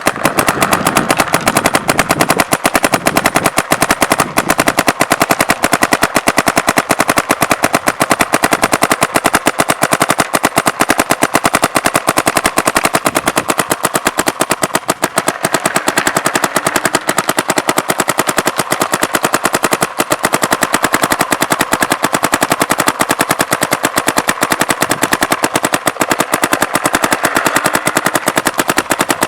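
Bob Long spool-engine paintball marker firing in rapid, unbroken full-auto strings, about twelve shots a second at the PSP rate-of-fire cap, each shot a sharp pop.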